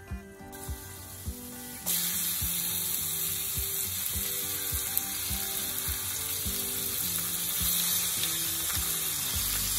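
Raw chicken skin dropped into hot garlic oil in an iron frying pan, setting off a loud, steady sizzle about two seconds in, after a quieter sizzle of the garlic alone. Background music with a steady beat plays throughout.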